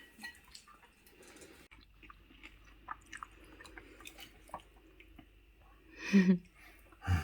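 Someone chewing and biting into a stove-baked lavash wrap, faint wet mouth clicks scattered throughout, with a brief voiced sound about six seconds in.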